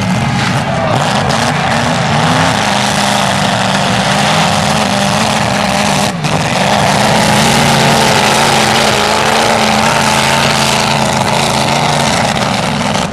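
Derby car engines running and revving, loud and continuous, with a brief drop about six seconds in.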